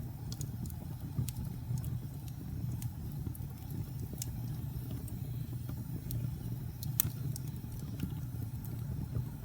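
Wood fire burning in a fireplace: a steady low rumble of the flames with irregular sharp crackles and pops, the loudest about seven seconds in.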